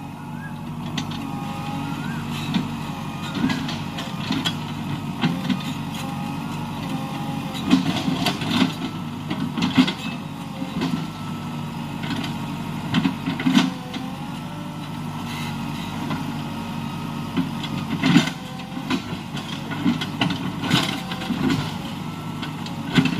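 An engine running steadily, with scattered knocks and clatter.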